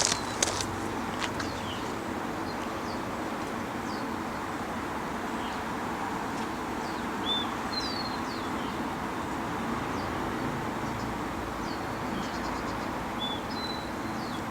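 Small birds chirping, short high chirps scattered every second or so over a steady background hiss.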